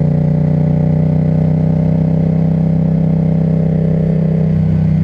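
Yamaha MT-07's 689 cc parallel-twin engine, through an Akrapovic titanium exhaust, running steadily at an unchanging idle-like pitch.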